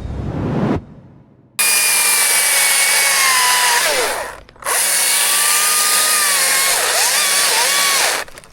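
Chainsaw cutting wood in two runs of a few seconds each, with a short pause between; the pitch sags several times as the chain bites into the cut.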